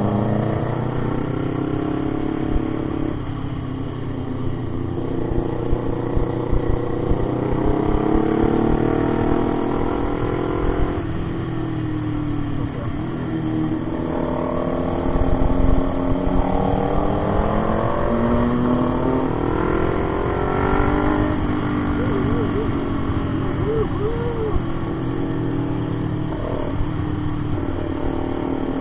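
Motorcycle engine under way, its pitch climbing as it accelerates and dropping at each gear change, several times over, above a steady low rumble.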